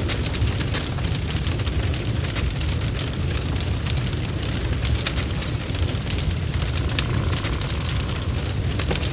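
Bonfire burning: a steady low rumble of flames with frequent sharp crackles and pops of burning wood.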